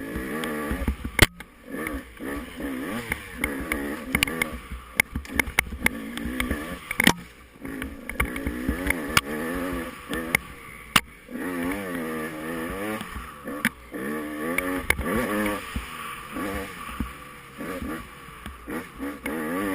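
Off-road dirt bike engine revving up and falling off again and again as the rider works the throttle over rough ground, with sharp knocks and thumps now and then.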